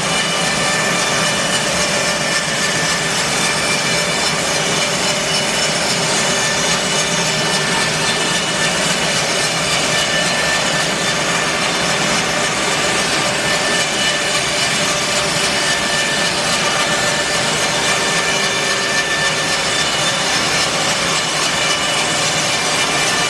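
Bandsaw mill cutting an English larch log: a steady, unbroken cut with the machine's constant whine running under the sawing noise.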